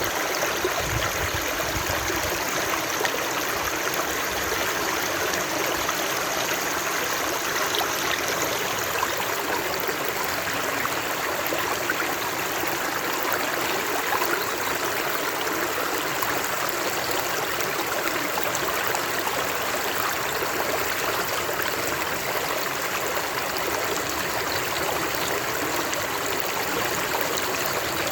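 Steady rushing and babbling of flowing water, like a stream running over rocks, even and unbroken.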